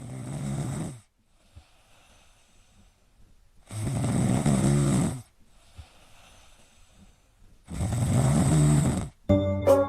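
A sleeping pet snoring in a slow rhythm: three loud snores, each lasting about a second and a half and coming about four seconds apart, with fainter breaths between them.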